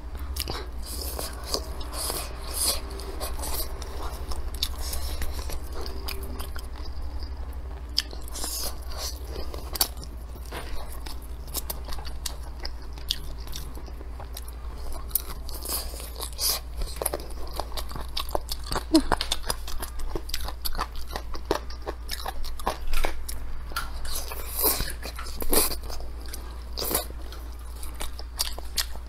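Close-miked chewing and biting of braised chicken: irregular crunches and wet mouth clicks, with a steady low hum underneath.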